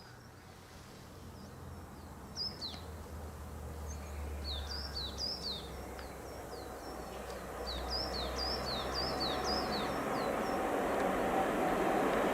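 A small bird calling in quick series of short falling chirps. Underneath, the rumble of an approaching train grows steadily louder toward the end.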